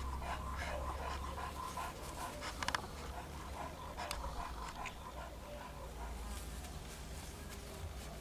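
A puppy panting, with a brief cluster of clicks about two and a half seconds in.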